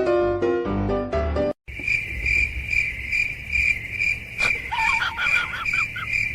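A bright piano tune cuts off about a second and a half in. After that, a steady high insect chirp pulses about two to three times a second, and a few short high animal calls join it past the middle.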